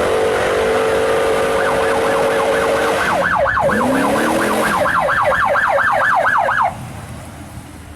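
Police siren on a 1976 Plymouth Fury, yelping in fast rising-and-falling sweeps about four to five times a second. Under it, a lower steady tone holds for the first few seconds. The siren cuts off suddenly near the end.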